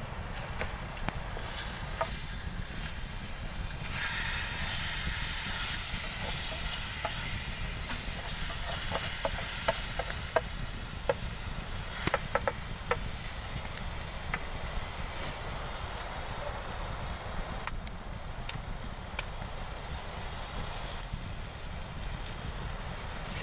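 Food sizzling in a pan over a campfire, the hiss growing louder a few seconds in, with a cluster of sharp pops about ten to thirteen seconds in. A steady low wind rumble on the microphone sits underneath.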